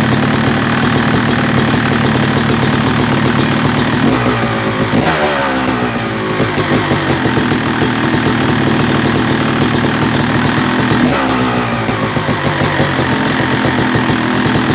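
Freshly rebuilt Yamaha YZ250 two-stroke engine, bored out to 270cc, running steadily while it warms up. It is revved gently twice: the revs rise and fall back about four to six seconds in, and again about eleven seconds in.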